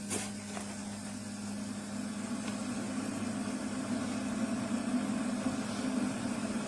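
Keurig K-Classic single-serve coffee maker running: a steady low pump hum, with a broad rush of noise swelling about two seconds in as it works through a brew.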